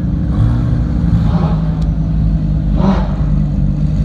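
Lamborghini supercar's engine running at low revs as the car rolls slowly past, a steady deep drone that holds one pitch.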